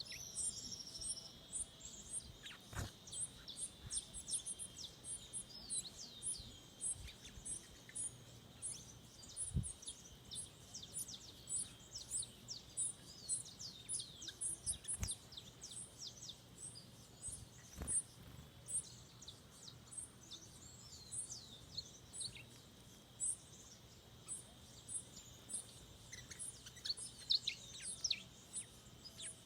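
Forest birds calling: many short, high chirps that fall in pitch, several a second, over a steady high-pitched hiss.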